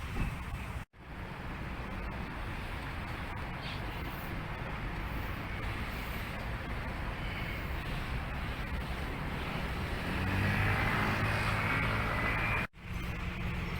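Steady outdoor rumble of a vehicle engine running, louder and clearer for a couple of seconds about ten seconds in. The sound drops out abruptly twice, at edit cuts.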